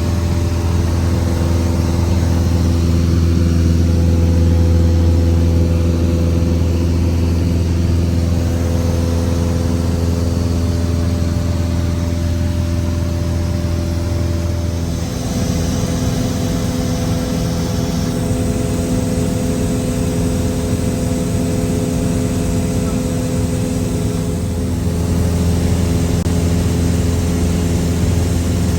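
Cessna 172 piston engine and propeller droning steadily. Its deep hum eases about halfway through and strengthens again about three-quarters of the way through.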